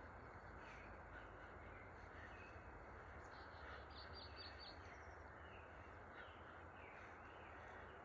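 Faint outdoor ambience with a steady low hiss, over which birds call now and then. About halfway through comes a quick run of five or six short, high calls.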